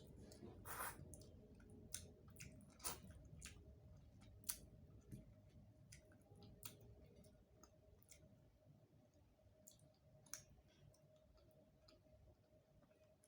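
Quiet close-miked eating sounds: scattered wet mouth clicks and soft chewing of rice and curry at irregular moments, a few of them sharper, over a faint steady hum.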